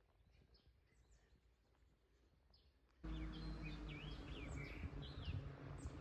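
Small songbirds chirping faintly. About halfway through, a steady background hiss with a low hum cuts in abruptly, and a bird sings a clear phrase of quick rising and falling whistles over it.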